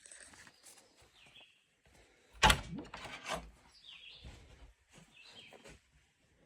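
Birds chirping in short calls a few times, with a loud sharp knock about two and a half seconds in and quieter thumps and rustles around it.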